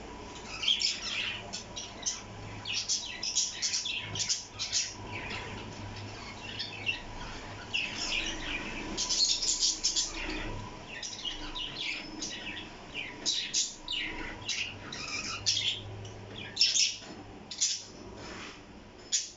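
Parrots chirping: a quick, irregular run of short, high calls throughout.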